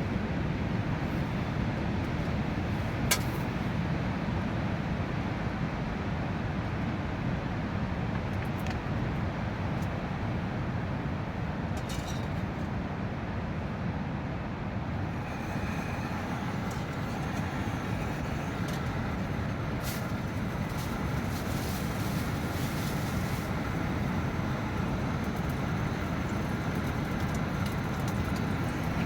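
Strong wind blowing steadily, with a sharp tap about three seconds in and a few small ticks later; a faint high hiss joins about halfway through.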